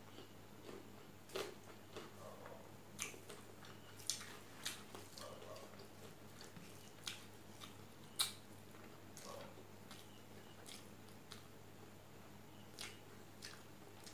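Close-up eating sounds from a person eating rice and fish curry by hand: chewing and mouth smacks, with scattered sharp clicks about once or twice a second, the loudest two near the middle. A faint steady low hum lies underneath.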